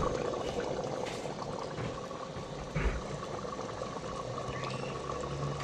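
Chicken and pea curry boiling in its pot, a steady bubbling with plenty of water still in it, with a single low knock about three seconds in.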